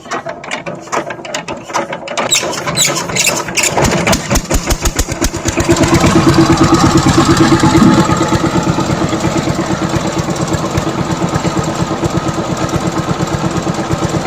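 Walk-behind power tiller engine being cranked over: rapid, quickening strokes until it catches about four to six seconds in. It runs loudest for a couple of seconds, then settles into a steady, even running beat.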